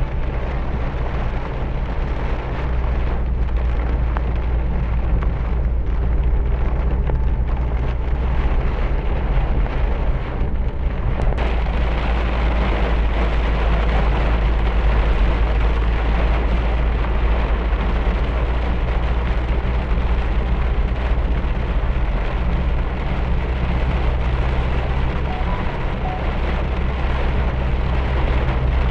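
Heavy rain falling steadily during a storm, with a constant low rumble underneath; about a third of the way in the rain grows heavier and hissier.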